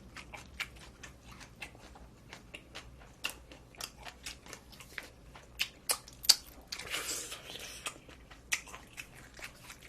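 Close-up chewing and crunching of food, with many small sharp mouth clicks and crunches throughout and a brief louder crunch a little past the middle.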